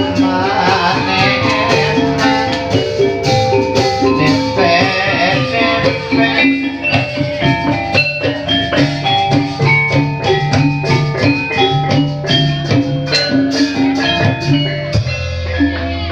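Javanese gamelan-style music accompanying an ebeg horse dance: rapid struck metallophone notes over drumming, with a singing voice in the first few seconds.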